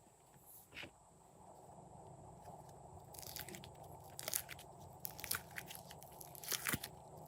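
Glossy slime being squeezed and worked by hand, giving short sticky crackles and clicking pops: one about a second in, then clusters from about three seconds in.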